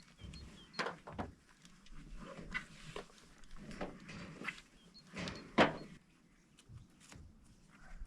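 A series of irregular knocks and scraping handling sounds, the loudest a sharp knock about five and a half seconds in, with faint bird chirps near the start.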